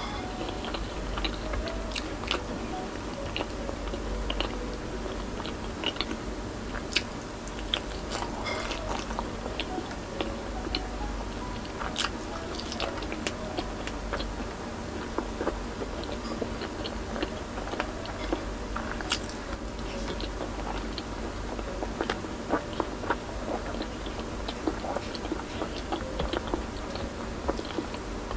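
Close-miked wet chewing and mouth clicks of a person eating rice and saucy food by hand. Faint background music runs underneath.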